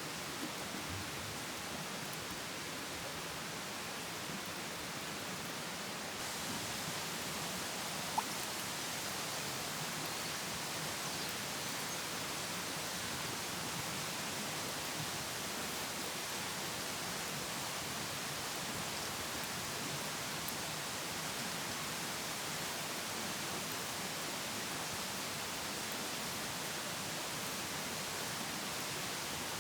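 Steady, even hiss of outdoor noise, getting a little brighter about six seconds in, with one faint click about eight seconds in.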